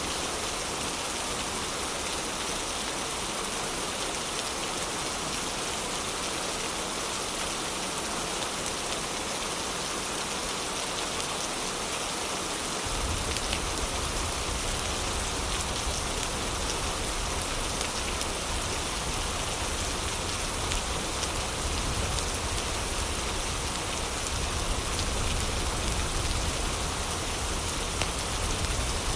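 Steady heavy rain, a dense even hiss with scattered faint ticks. About halfway through, a deep low rumble comes in abruptly and stays.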